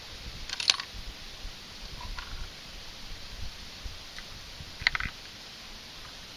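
Metallic clicks and clacks of a Ruger American Predator's bolt being worked, in a cluster just under a second in and another about five seconds in. Gusty wind rumbles on the microphone underneath.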